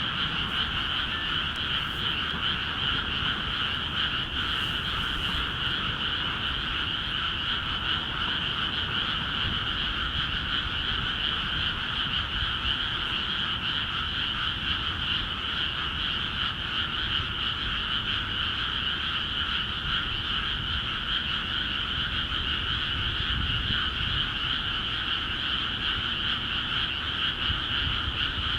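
A dense chorus of many frogs calling together in flooded rice paddies, a steady, unbroken din with no single voice standing out.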